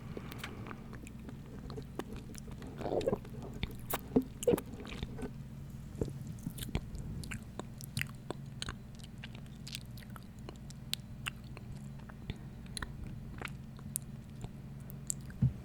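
Fingers or nails tapping and scratching an unidentified object for ASMR, making quick irregular clicks, with a louder crunchy cluster about three to five seconds in. A steady low hum runs underneath.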